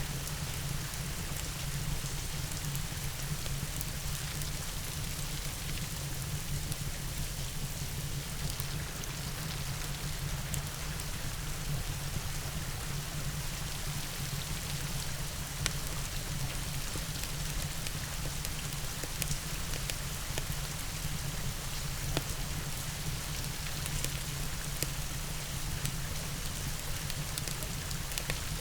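Steady, even rainfall with a low rumble underneath and a few sharp ticks scattered through.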